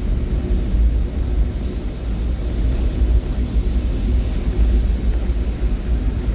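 A steady, uneven low rumble with a fainter hiss over it.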